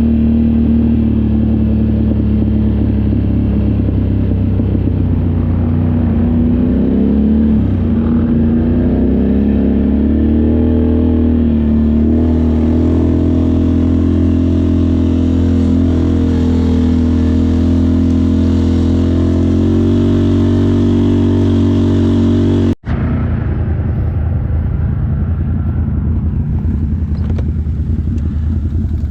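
ATV or side-by-side engine running while riding, its pitch rising and falling with the throttle. The sound cuts out for an instant about 23 seconds in and comes back less even.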